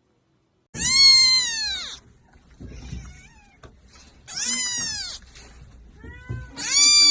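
A cat meowing loudly three times, each high-pitched call lasting about a second and arching down in pitch at the end.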